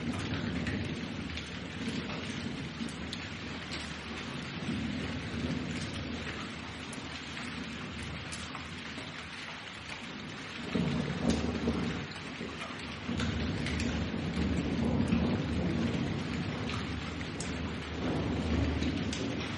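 Steady rain falling, with low thunder rumbling through it, swelling about halfway through and again near the end.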